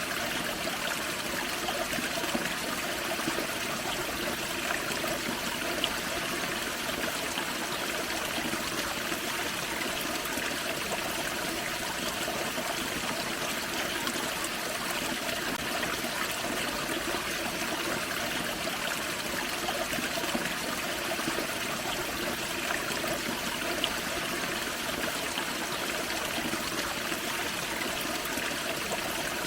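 Small forest waterfall and creek water splashing and trickling steadily over rocks.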